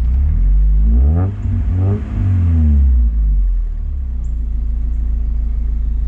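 Mazda Miata's four-cylinder engine idling, blipped twice, each rev rising and falling back to idle, then idling steadily. It sounds smooth and normal, with no sign of the misfire it had shown before.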